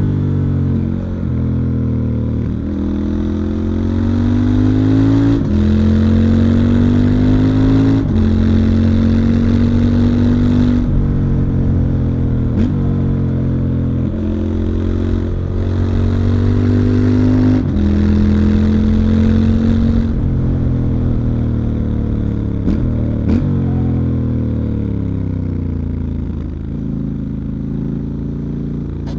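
Stock 2019 Triumph Scrambler 1200 XE's 1200 cc parallel-twin engine and exhaust under acceleration. The engine note rises and then drops sharply several times as the rider shifts up through the gears. In the last third the note falls steadily as the bike slows down.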